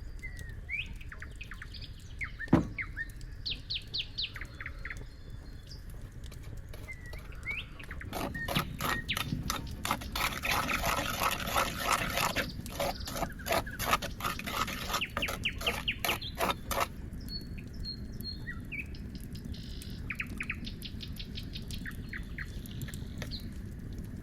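Small birds chirping and calling with short, quick notes. A sharp click comes about two and a half seconds in, and a louder run of rapid, evenly repeated rasping strokes lasts from about eight to seventeen seconds.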